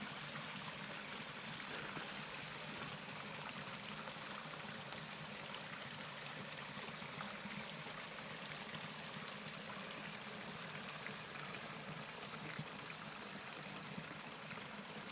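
Steady rush of running water, with a single faint click about five seconds in.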